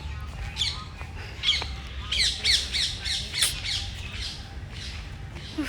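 Birds calling: many short, repeated calls that slide downward in pitch, most crowded in the middle.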